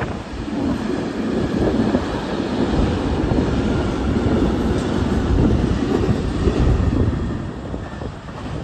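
Train running along the track: a steady rumble of wheels on rail, easing off a little near the end.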